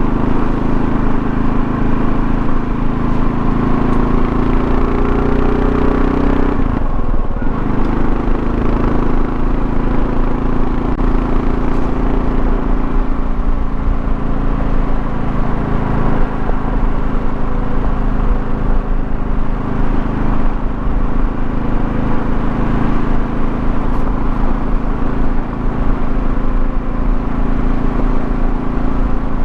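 2024 Kawasaki KLR650's single-cylinder engine running under way, with road and wind noise. Its pitch climbs over the first six seconds, breaks briefly about seven seconds in, then holds steady.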